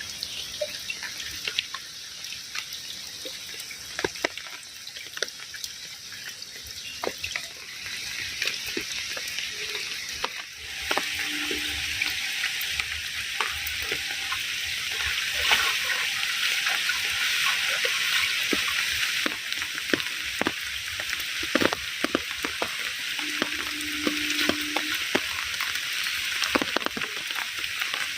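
Food frying in hot oil in a pan: a steady sizzle scattered with sharp crackles, which gets louder about ten seconds in.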